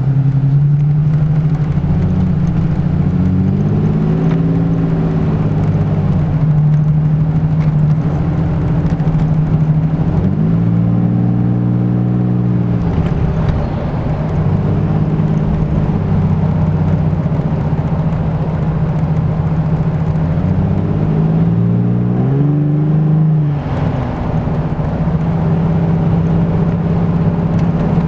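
2008 Toyota Tacoma engine breathing through an aFe cold air intake and Borla stainless exhaust, idling and revved up three times, each rev held briefly before dropping back to idle.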